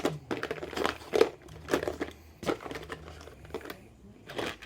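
Small plastic pigment pots and bottles being picked up and handled, giving a string of irregular short clicks and crinkling rustles.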